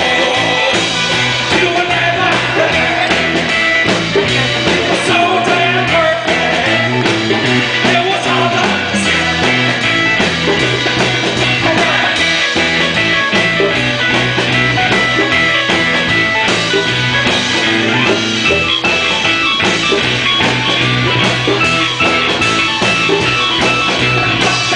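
Live rock band playing, with electric guitars, bass and drums, and some singing.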